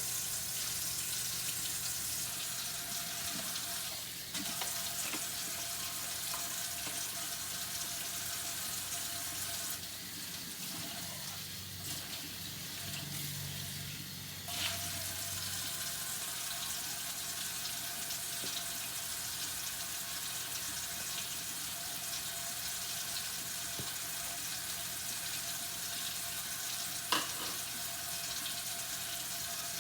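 Kitchen tap running steadily into a sink while dishes are washed by hand, with a few brief clinks.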